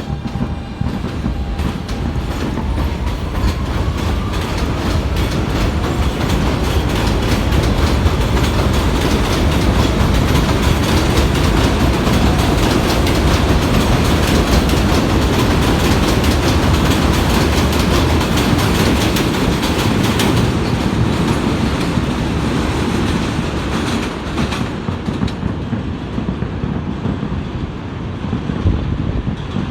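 R160B Siemens subway train running through the station: a rising motor whine in the first few seconds, then steady loud wheel-and-rail noise with clickety-clack over the rail joints, easing a little near the end.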